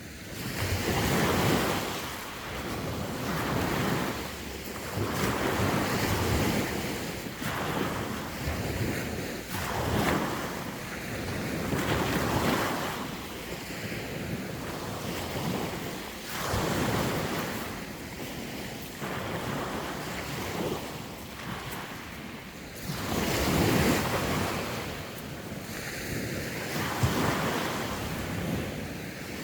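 Sea waves breaking and washing on the shore, swelling and receding every two seconds or so, with wind noise on the microphone.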